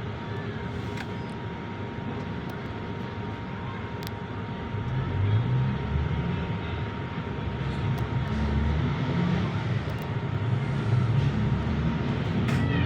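Bus engine and traffic noise: a steady running sound with a thin constant tone, growing louder about halfway through, and a rising whine starting near the end as a vehicle pulls away.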